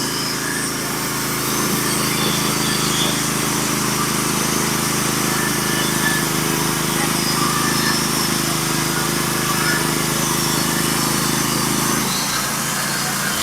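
Norwood HD36v2 portable bandsaw mill running steadily under load, its gas engine driving the band through a scarlet oak log on the top cut. The engine note drops away near the end as the cut finishes.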